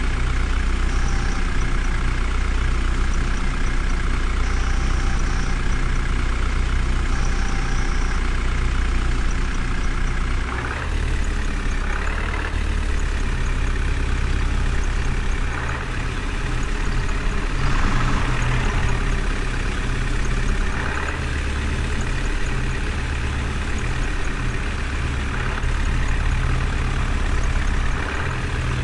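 Heavy vehicle engine idling steadily, with a few brief louder surges.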